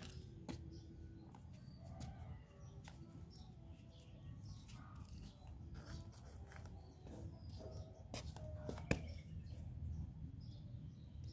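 Faint bird chirps scattered over a low background rumble, with two sharp clicks about eight and nine seconds in.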